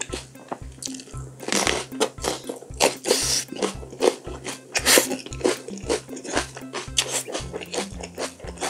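Crisp crunching as a raw yellow pepper is bitten and chewed close to the microphone, over background music with a steady beat of about two pulses a second.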